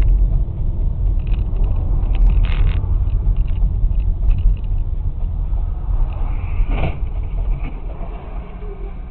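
Car driving, a steady low rumble of engine and road noise with a few faint knocks, fading slowly over the last few seconds.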